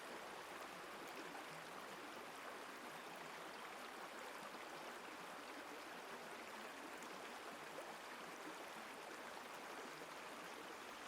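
Faint, steady outdoor ambience: an even rushing noise with no distinct events.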